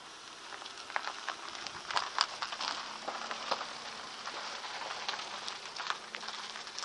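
Irregular crackling clicks and ticks over a steady hiss.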